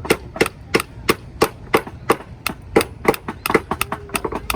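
Hammer tapping a nail into a small wooden fire-truck kit, steady blows about three a second.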